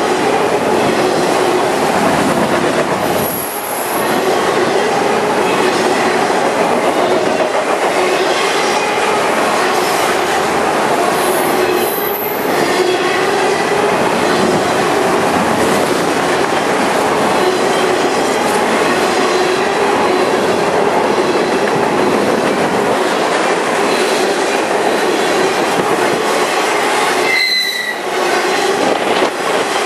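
Freight cars rolling past close by: a steady loud rumble and clatter of steel wheels on rail, with a steady ringing wheel squeal above it. The noise dips briefly twice, about three and a half seconds in and near the end.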